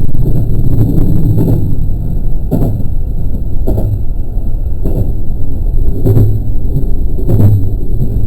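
JR West 223 series electric train running along the line: a steady low rumble of wheels on rail, with a sharp clack from the rail joints every second or so.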